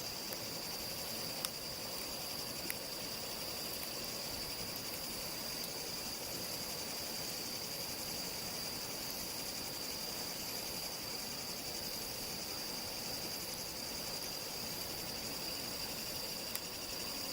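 Night insects singing in one steady, unbroken high-pitched trill, with a few sharp clicks about a second and a half in, near three seconds, and near the end.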